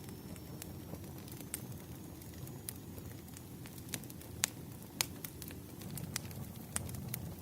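Wood fire crackling: sharp pops at irregular intervals over a low, steady rumble of flames, with two louder pops a little past the middle.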